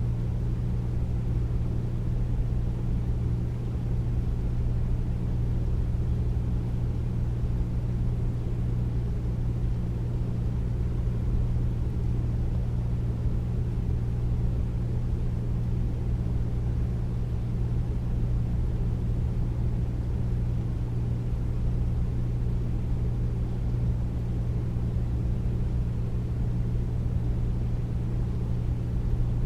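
Air conditioner running steadily: a deep, even hum with low steady tones under a soft rushing noise.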